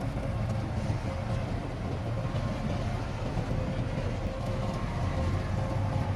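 Heavy diesel earthmoving machinery running steadily: a continuous low engine rumble with a rattling, clattering undertone.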